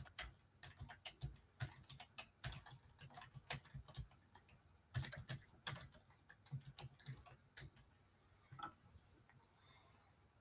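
Faint typing on a computer keyboard: irregular bursts of key clicks for about eight seconds, then stopping.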